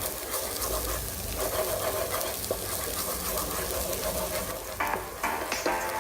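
Shallots and garlic sizzling in melted butter in a nonstick frying pan while being stirred, with small scrapes and taps of the utensil. Music comes in near the end.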